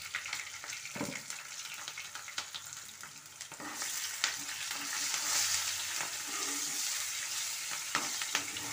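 Sliced onions frying in hot oil in a kadai, sizzling steadily, with a spoon clicking and scraping against the pan as they are stirred. The sizzle grows louder a little before the middle, once the stirring gets going.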